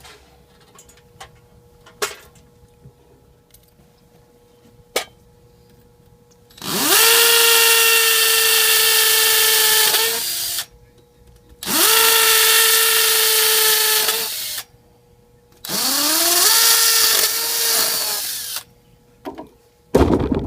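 Power drill running three times, about three seconds each: the motor spins up quickly, holds a steady whine, then winds down. A few faint clicks come before it and a loud thump near the end.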